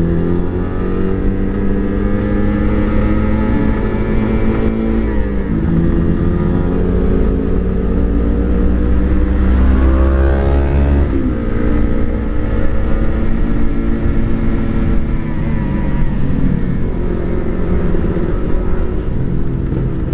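Motorcycle engine running under way, its pitch climbing as it revs and dropping sharply at gear changes about five and a half seconds in and again about eleven seconds in.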